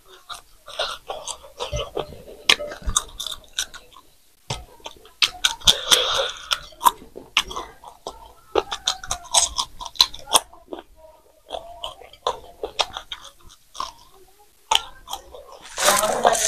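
Close-miked chewing and crunching of fresh green chillies, with many short wet mouth clicks and crisp snaps. Near the end a louder rush of breath blown out through pursed lips.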